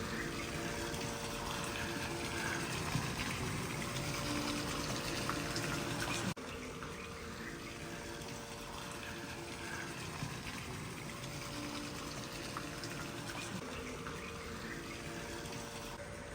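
Running water, a steady rushing flow such as a fountain or small cascade feeding a pond, with an abrupt cut about six seconds in, after which it continues slightly quieter.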